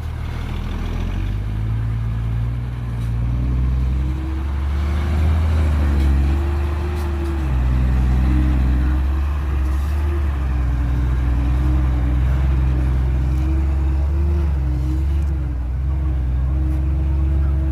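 Heavy diesel engine running steadily, its engine note shifting up and down several times.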